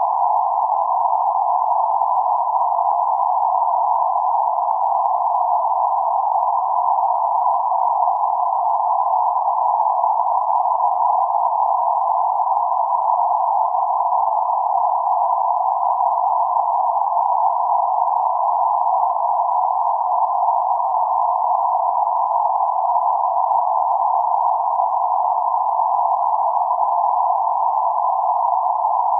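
Band-limited synthetic noise centred around 848 Hz: a steady, hollow hiss, confined to a narrow band and unchanging throughout.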